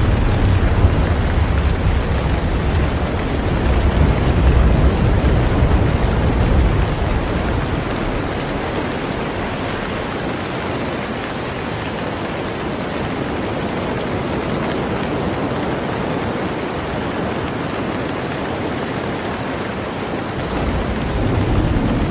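Heavy rain falling steadily on a boat, an even hiss. A low rumble underneath fades out after about seven seconds and comes back near the end.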